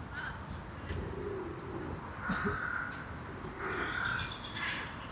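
Birds calling in a city park, with short calls heard against a steady background hum.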